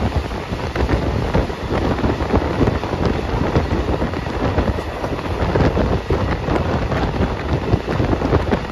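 Passenger train running at speed, heard from inside the carriage: a steady rumble of the wheels on the track with irregular rattling clicks, and wind buffeting the microphone.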